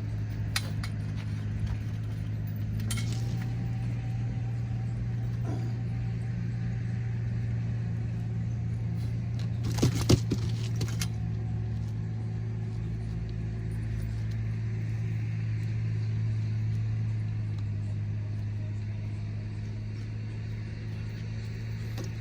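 An engine or motor running steadily with a low hum, with a few short clicks and knocks, the loudest cluster about ten seconds in.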